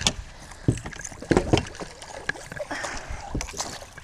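A series of sharp knocks and thumps on a small boat with some water splashing, as a big bass is landed and brought aboard.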